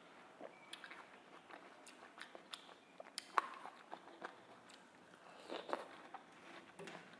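Watermelon being bitten and chewed: wet, crisp mouth sounds with scattered sharp clicks. The sharpest click comes a little past three seconds in, and a bite on fresh flesh more than halfway through.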